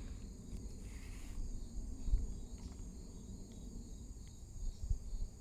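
Faint outdoor ambience: insects trilling steadily in the background over a low rumble, with a couple of soft low bumps.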